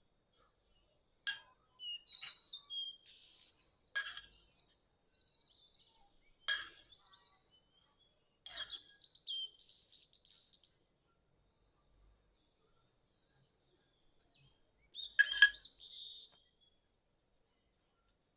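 Small birds chirping and twittering in bursts, with a few sharper, louder calls, then a pause of several seconds before another short burst near the end.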